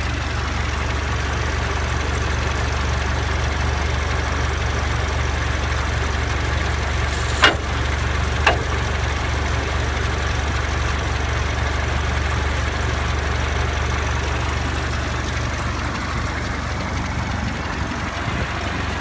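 Old Ford tractor engine idling steadily. Two sharp knocks about a second apart come midway.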